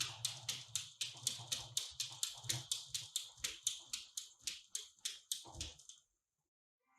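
A dog making a rapid, even series of short sounds, about five a second, that cuts off suddenly near the end.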